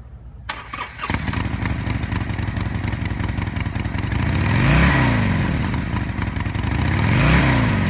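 Harley-Davidson Sportster 1200 Forty-Eight's air-cooled 45-degree V-twin, fitted with an aftermarket exhaust, starting up about a second in and idling, then blipped twice, with the pitch rising and falling about five seconds in and again near the end.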